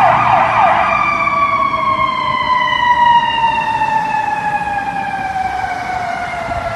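Fire apparatus electronic siren. A fast sweeping yelp runs for about the first second, then a slow wail falls steadily in pitch and starts to rise again at the very end, over a low truck engine.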